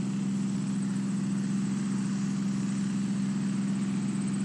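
A steady, unchanging motor hum with a faint high whine above it.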